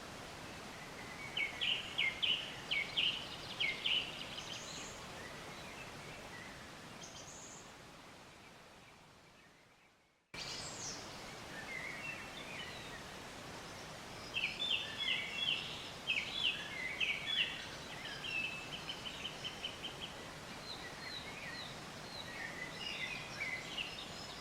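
Birds chirping in quick runs of short high notes over a steady outdoor hiss. The sound fades out to silence about eight to ten seconds in, then cuts straight back in, and the chirping resumes.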